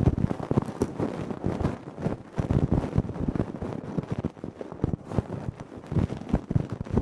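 Close-up ear-cleaning ASMR sounds: an ear pick scratching and rubbing right against the microphone, an irregular, unbroken run of crackles and scrapes.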